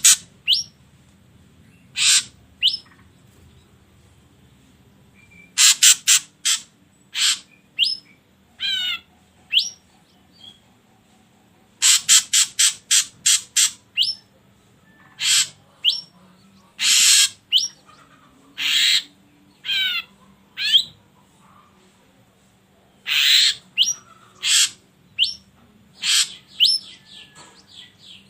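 Ashy drongo calling: loud, harsh, scratchy notes given singly and in quick runs of several, mixed with a few fast falling whistled glides.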